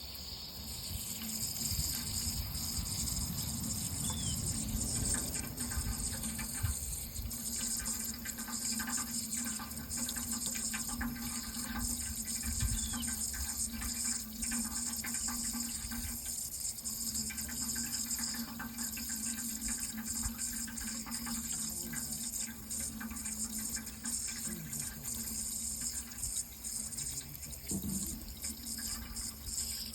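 Water running steadily, with a faint low hum underneath.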